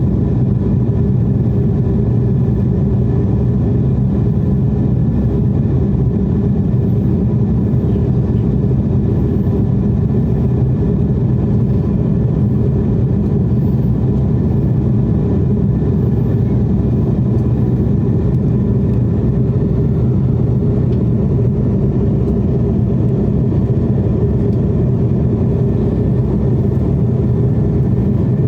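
Steady cabin noise of a jet airliner in flight: a low, even drone of engines and rushing air, with faint steady tones above it.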